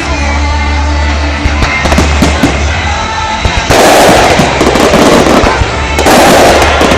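Fireworks display: scattered bangs at first, then about halfway through a dense, loud crackling of firework salvos that breaks off briefly and starts again. Music with a deep bass plays underneath.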